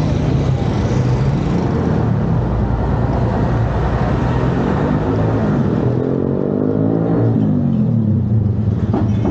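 Motor vehicle engine running close by in street traffic, with a steady low hum; about five seconds in, its pitch rises and then falls again over a few seconds, as when the engine revs up or the vehicle passes.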